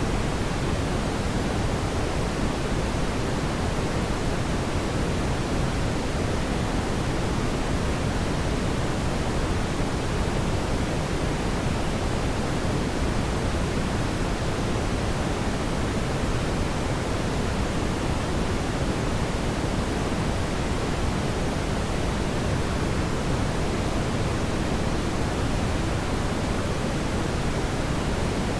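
Fireplace ambience track: a steady, even rushing noise, heaviest in the low end, with no distinct crackles or pops.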